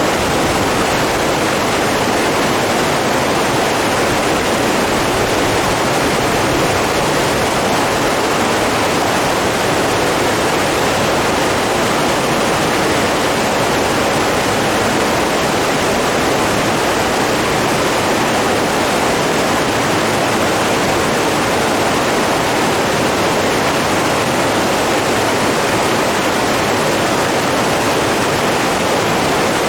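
Steady rush of running water, an even, unbroken noise without any distinct events.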